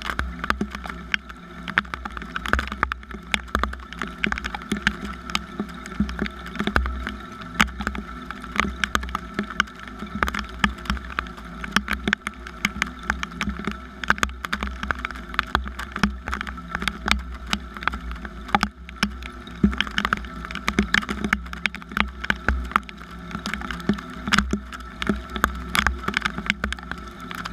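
Rain falling, with dense, irregular drops ticking sharply on a nearby surface over a steady low rumble.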